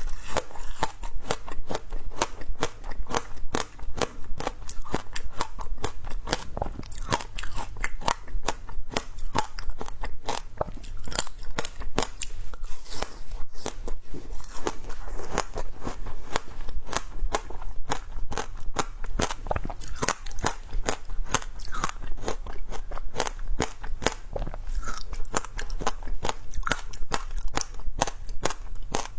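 Close-up crunching and chewing of creamy shaved ice: a steady run of many small, sharp crunches without a break.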